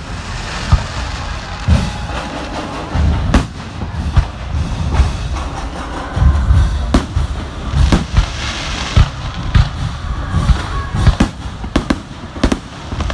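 Fireworks going off: an irregular string of booms and sharp bangs, several a second at times, with a crackling hiss from about eight to nine seconds in.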